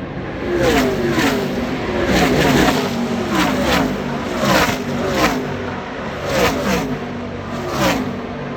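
NASCAR Truck Series race trucks' V8 engines at full speed passing one after another, about ten passes in quick succession, each engine note falling in pitch as the truck goes by.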